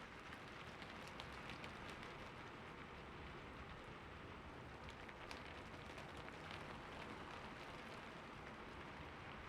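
Rain falling steadily, with scattered individual drops ticking out above the even hiss.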